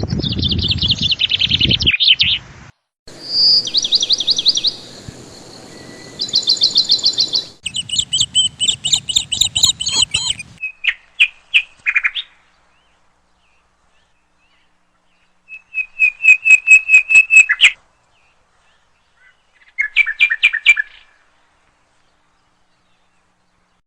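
Small songbirds chirping in fast trills of high, rapidly repeated notes. The song comes in several short stretches that start and stop abruptly.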